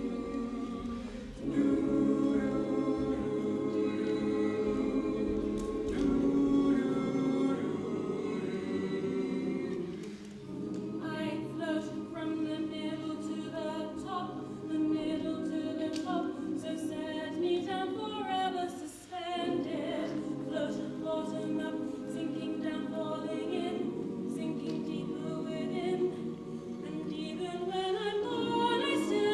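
A choir singing in long held chords, with short breaks between phrases about ten and nineteen seconds in.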